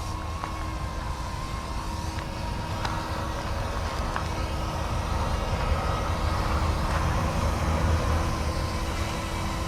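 Battery-powered YX Black Hawk UH-60 scale RC helicopter in flight: a steady motor and rotor whine that wavers slightly in pitch, over a low rumble.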